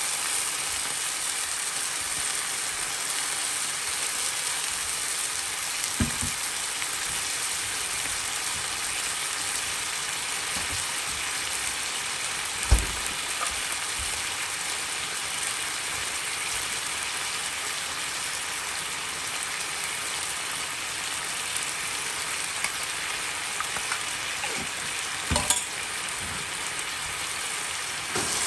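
Noodles, napa cabbage and meat sizzling steadily in a hot nonstick pan. A few sharp knocks break in, the loudest about halfway through, and a wooden spatula starts stirring right at the end.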